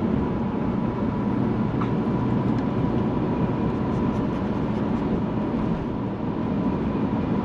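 Steady, loud vehicle rumble with a faint high tone running through it. It starts and cuts off abruptly.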